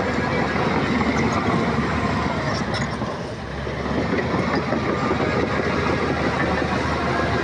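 Heavy earthmoving machinery working: a diesel engine running under load with steady metallic clatter, likely a crawler bulldozer's steel tracks. The noise eases briefly about halfway through, then picks up again.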